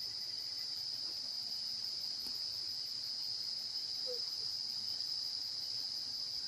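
Insects, crickets or cicadas, keeping up a steady, unbroken high-pitched drone.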